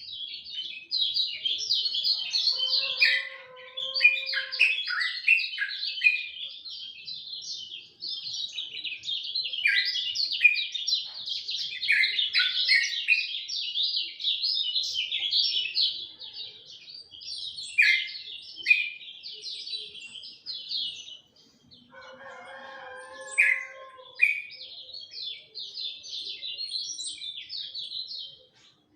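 Kecial kuning songbird singing a long, fast, chattering song of high chirps, breaking off briefly about two-thirds of the way in. A rooster crows in the background twice, near the start and after the break.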